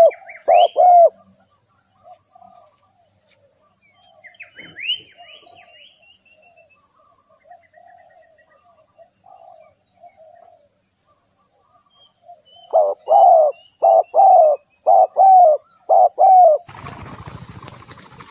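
Spotted dove cooing: a short phrase of rhythmic coos at the start and a longer run of about seven coos near the end, the call of a decoy dove used to lure wild spotted doves. Faint chirps of small birds sound in between, and a burst of rustling noise comes in near the end.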